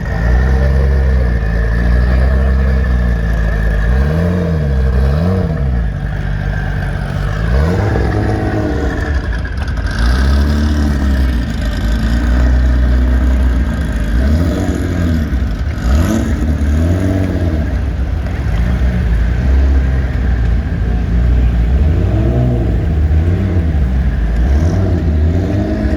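Car engine running loud and being revved over and over, its pitch rising and falling back with each blip of the throttle.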